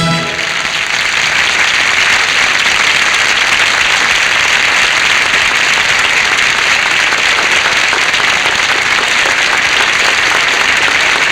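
Studio audience applauding steadily after a song ends; the last notes of the orchestra cut off right at the start.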